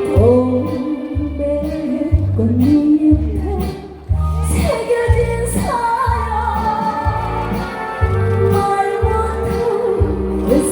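A Korean trot song performed live: a woman singing over a backing track with a steady, even bass beat. The music drops briefly about four seconds in, then she comes back in on a rising note.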